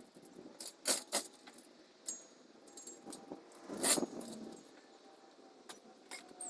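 Light metal clinks and clanks, with a few sharp knocks; the loudest comes about four seconds in.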